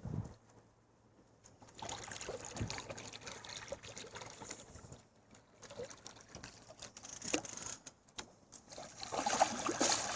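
Water trickling and dripping, with a few light knocks, getting louder near the end.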